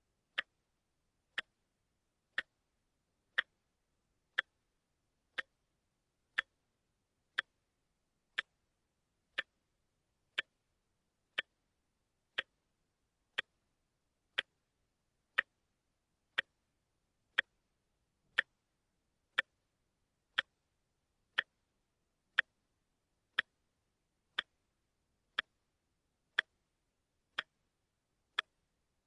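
Watch ticking steadily: short, crisp ticks evenly spaced about once a second.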